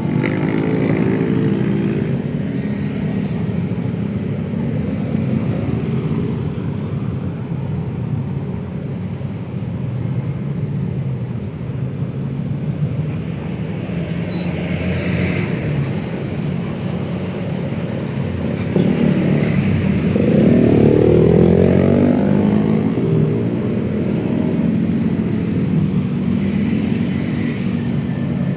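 Steady city road traffic of cars and motorcycles. About nineteen seconds in, a louder vehicle passes close by, its engine tone rising and then falling away.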